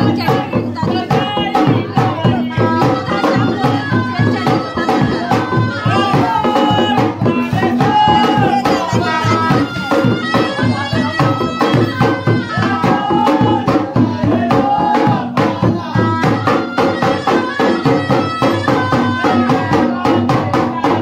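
Indian folk music with fast, steady drumming and a melody over it.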